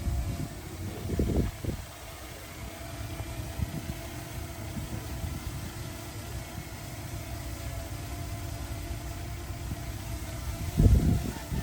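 Heavy diesel earthmoving machine's engine running steadily, with a low thud about a second and a half in and a louder one near the end.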